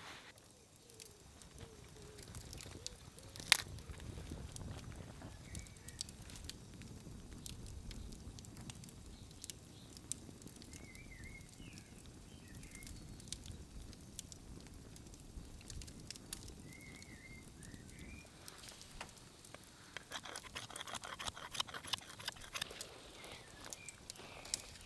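Faint outdoor ambience with a few short, high bird chirps here and there. One sharp snap comes a few seconds in, and a patter of small crackles and clicks builds near the end.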